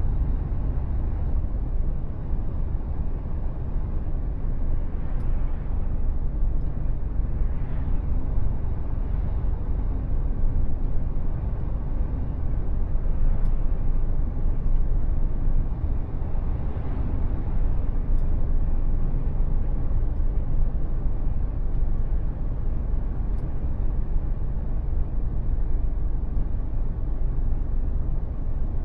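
Mercedes Actros truck running on the road: a steady low rumble of diesel engine and tyre noise.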